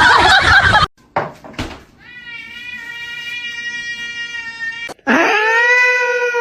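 A cat yowling in long, drawn-out calls: one steady held call of about three seconds, then a louder one that slides up at its start and holds steady.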